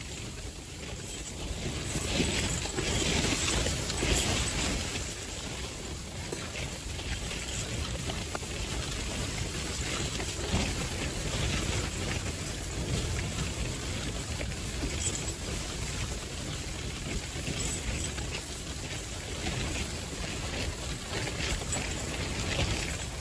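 Strong gusting wind buffeting the microphone, a steady rumbling rush that swells a couple of seconds in.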